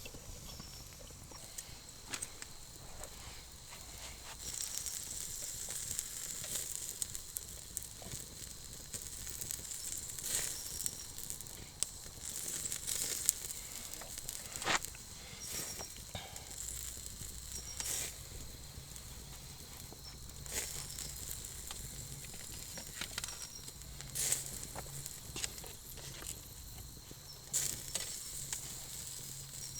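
Wood campfire crackling, with sharp pops and snaps at irregular moments over a steady hiss.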